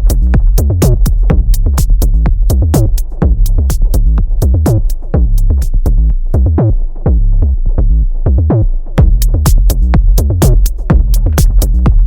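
Minimal electro instrumental with a heavy drum-machine bassline and a steady run of sharp hi-hat ticks. The hi-hats drop out about three seconds in, leaving the bass alone, and come back about nine seconds in.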